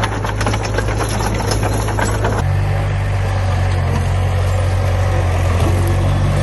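Heavy construction-machine diesel engine running steadily, with rapid metallic clattering over it for the first two seconds or so. About two and a half seconds in, the sound cuts abruptly to the engine alone at a slightly higher pitch.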